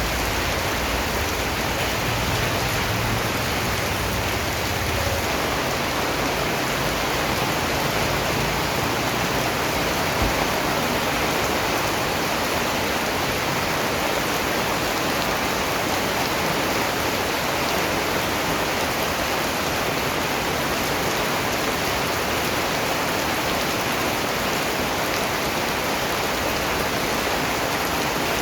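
Steady rain falling, an even hiss of many drops on a surface with no let-up, with a faint low rumble in the first few seconds.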